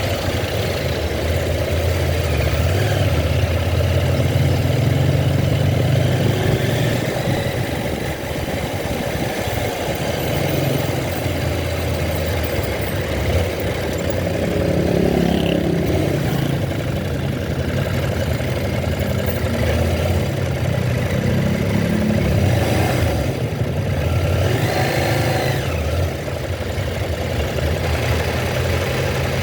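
Vehicle engine running with a steady low drone and road noise, heard on board while riding, its sound shifting a little around the middle and again near the end.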